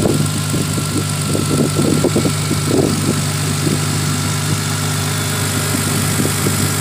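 A car engine idling steadily, with irregular sounds over it in the first three seconds or so.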